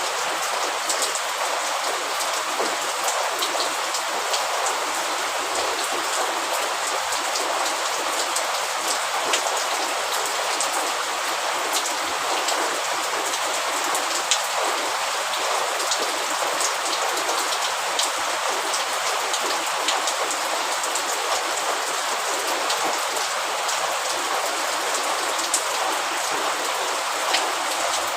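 Steady rainfall, a dense even hiss scattered with many small sharp drop ticks, without let-up.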